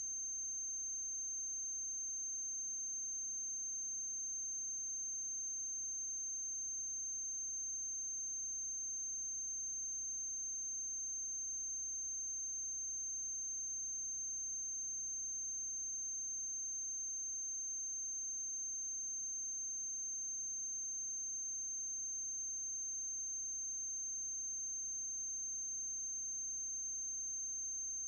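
A single steady high-pitched tone with a faint low hum beneath: electrical noise on the soundtrack of a silent-film transfer, not a sound from the scene.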